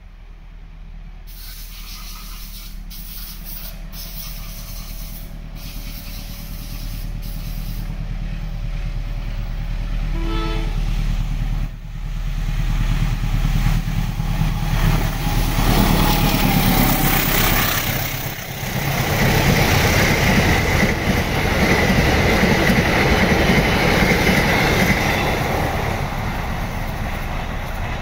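CC 201 diesel-electric locomotive growing steadily louder as it approaches hauling a passenger train, its engine a deep rumble. It passes close by about twelve seconds in, and the coaches then roll past loudly, easing off slightly near the end.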